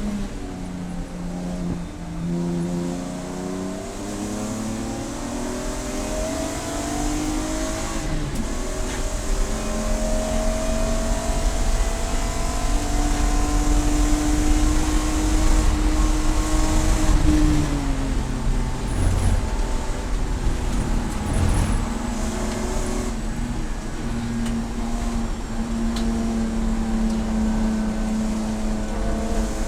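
Race car engine at racing speed, its pitch climbing under acceleration and dropping sharply at a gear change about eight seconds in. It climbs again, falls off as the car slows a little past halfway, then holds a fairly steady note with tyre and wind noise under it.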